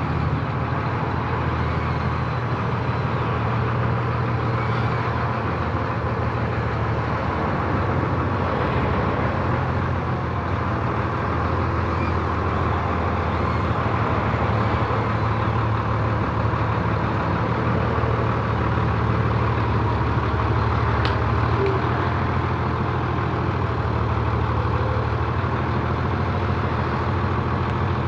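Agricultural tractor engine running steadily, a constant low engine drone with slight swells in level.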